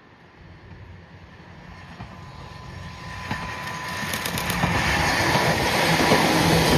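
Toyama Chiho Railway 14760-series electric train approaching and running past, growing steadily louder, with clicks of the wheels over rail joints about halfway through.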